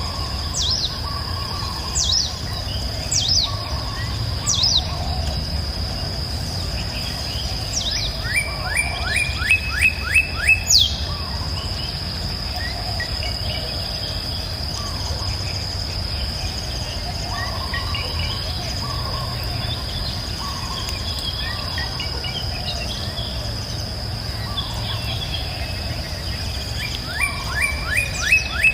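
Several birds singing over a steady high-pitched insect buzz. Sharp down-slurred whistles repeat about once a second at the start, a quick run of rising notes comes about a third of the way in and again near the end, and softer warbling calls sit lower, all over a low steady rumble.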